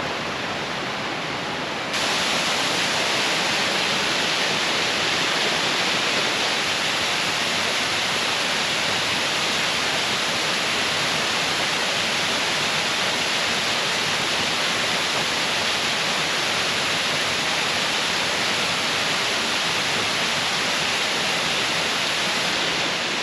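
Steady rushing of a mountain waterfall, a continuous even hiss that gets louder about two seconds in.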